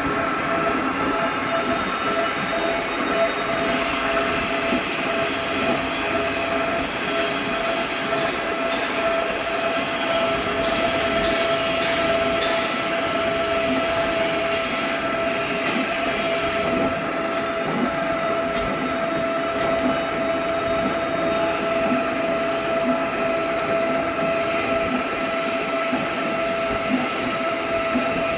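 HMT drilling machine running and drilling into steel: a steady whine over rough metallic noise.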